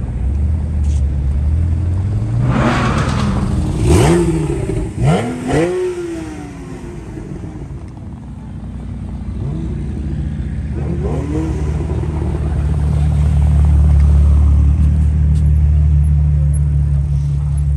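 Sports car engines at low speed: a rising rev, then several short blips that climb and fall away about four to six seconds in. After that comes a steady low engine drone that grows louder toward the end.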